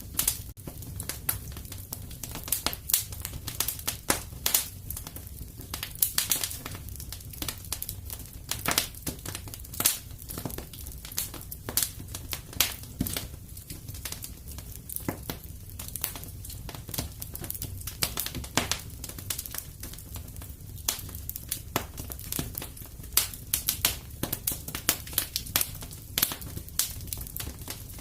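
Wood fire crackling in a fireplace: a constant low rumble with many irregular sharp pops and snaps, several a second.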